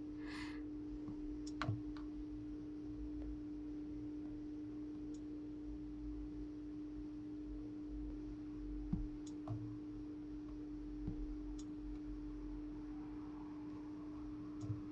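A steady, even-pitched hum with a few faint scattered clicks.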